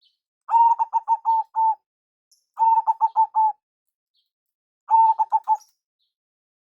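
Zebra dove (perkutut) cooing: three phrases, each a quick run of four to six short, clipped coos on a steady pitch, about two seconds apart.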